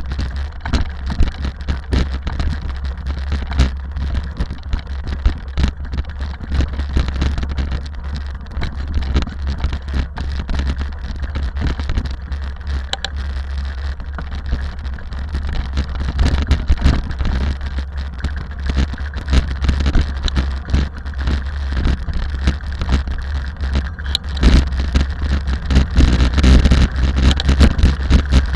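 Rally car on the move: a steady low rumble with dense rattling and ticking all through, getting louder about four-fifths of the way in.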